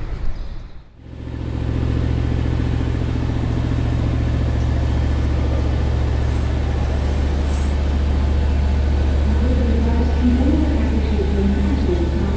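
A steady, loud, low engine drone that starts abruptly about a second in, after a brief dip, and holds at one pitch; fainter wavering sounds come in over it near the end.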